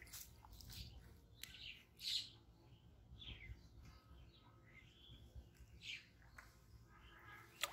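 Birds chirping faintly in short calls, with a few brief splashing and rustling noises as a hooked fish is lifted from the water.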